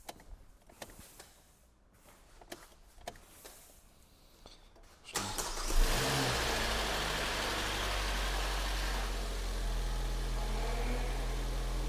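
First start of a freshly rebuilt Kia Sportage 3 G4NA 2.0-litre four-cylinder engine: a few seconds of faint clicks, then about five seconds in it cranks briefly, catches and settles into a steady idle.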